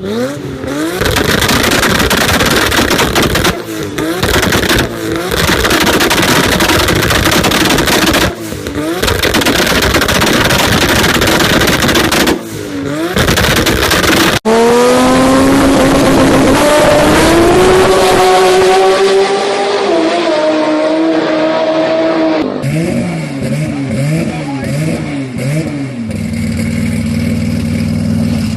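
Big-turbo Toyota Supra engines running hard at high revs. First comes a loud, continuous run broken by short dips about every four seconds. Then an engine note climbs steadily in pitch under acceleration, and finally an engine revs up and down repeatedly.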